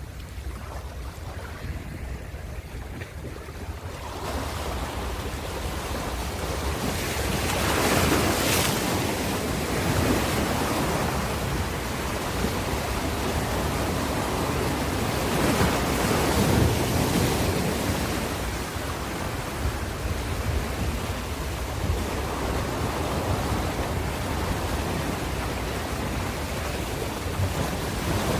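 Ocean waves breaking and washing on a shore, a steady rush of surf that swells about four seconds in, with waves cresting loudest around eight and sixteen seconds in.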